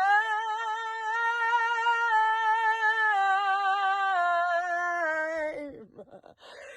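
A woman's unaccompanied singing voice holding one long note with a steady vibrato. The note steps down slightly in pitch twice, then slides down and breaks off about six seconds in, followed by a faint breath.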